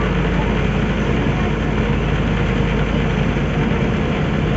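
Motorboat engine running steadily, with a low, even drone.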